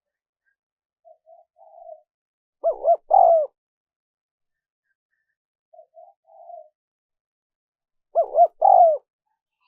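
Spotted dove cooing: two loud three-part coos, each led by a softer short phrase, repeating about every five to six seconds.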